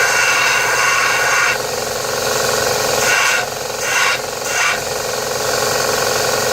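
Electric grinder running steadily with a constant motor whine, its wheel cutting into a hardened steel circular saw blade. There is one long cut for the first second and a half, then three short bites about half a second apart a few seconds in.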